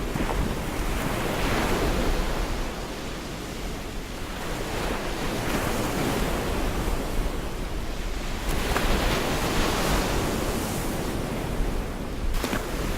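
Gulf of Mexico surf washing onto a beach: a steady rush of waves that swells and eases every few seconds.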